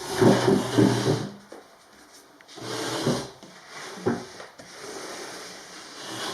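A double-glazed window being slid along its track, its frame rubbing and scraping in a few separate pushes, the strongest right at the start.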